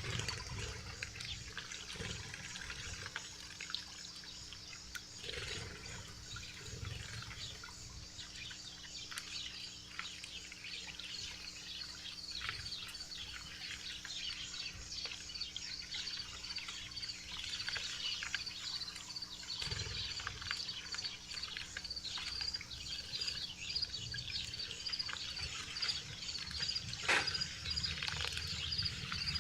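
Small wild birds chirping at a backyard feeder, with many short, quick calls overlapping throughout. Through the second half a fast run of high, evenly repeated notes goes on, over a faint steady hum.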